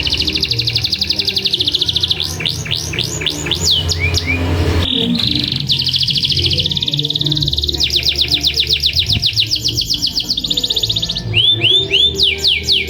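Domestic canary singing a long song of fast rolling trills and repeated downward-sweeping whistled notes, with a brief pause about five seconds in.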